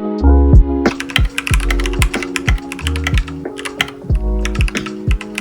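Typing on an Anne Pro 2 mechanical keyboard fitted with Gateron Speed Silver switches: rapid keystroke clacks that start about a second in, over background music with a beat.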